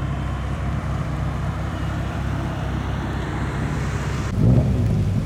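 Steady low rumbling noise, then about four and a half seconds in a track-day car's engine comes in louder with its pitch sweeping up and down as it passes close.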